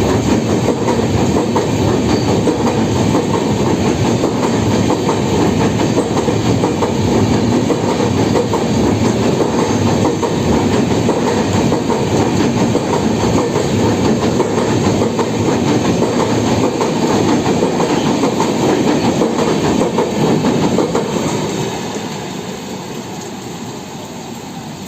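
Indian Railways express passenger coaches rolling past at speed, with a steady clickety-clack of wheels over rail joints. The noise drops away about three-quarters of the way through as the train draws off.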